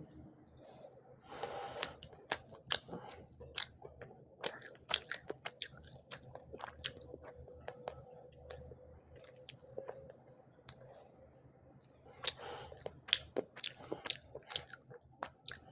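Close-miked chewing and biting of a mouthful of rice and fried hilsa fish, with many sharp crunches and wet mouth clicks in quick, irregular succession.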